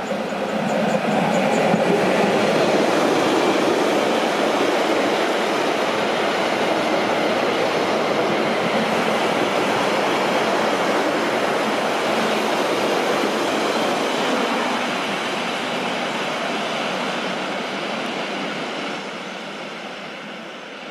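Rhaetian Railway freight train hauled by a Ge 6/6 II electric locomotive passing close by: a steady rolling rumble of metre-gauge wagon wheels on the rails, with some clickety-clack. It swells in the first second or two, holds as the container wagons go by, and fades near the end as the last wagons draw away.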